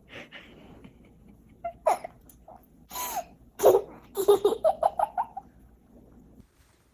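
A sudden sneeze-like burst about three and a half seconds in, followed by a quick run of short laughs.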